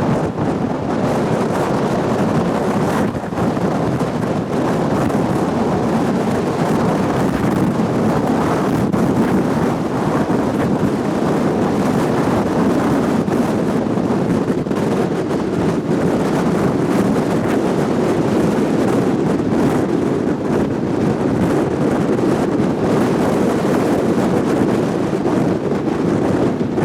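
Strong wind blowing across the microphone: a steady, low rush of noise.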